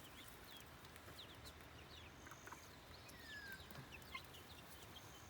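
Young chickens peeping faintly: scattered short falling chirps, with one longer falling peep about three seconds in.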